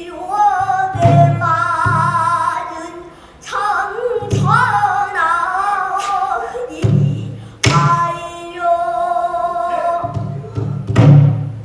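A child singing pansori in long, wavering melismatic phrases, with low drum strokes under the voice and a few sharp strikes, as a buk barrel drum keeps time.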